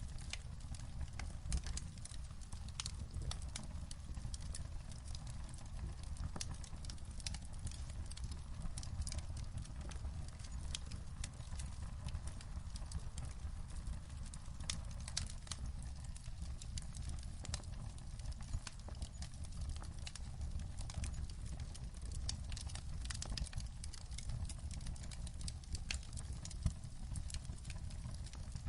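Wood fire crackling in a fireplace, with frequent small pops and snaps over a steady low rumble.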